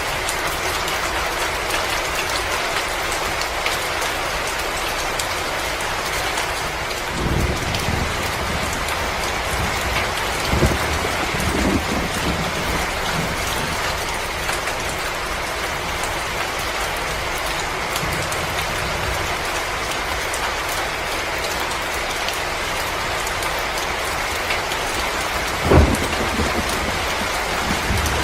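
Wood fire crackling steadily: a continuous hiss dotted with many small pops. A few dull low thumps stand out, the loudest near the end.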